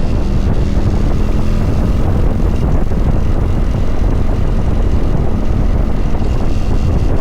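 Kawasaki Vulcan 900 Classic LT's V-twin engine running at a steady cruise, with a steady drone and wind rushing over the microphone.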